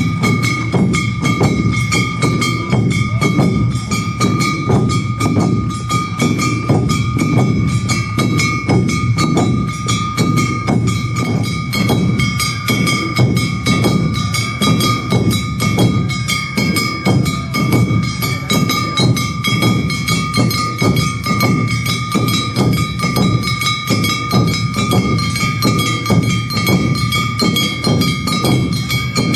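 Awa Odori narimono band playing the fast two-beat dance rhythm: drums and a struck kane gong on a quick, even beat, with steady high held notes sounding over it.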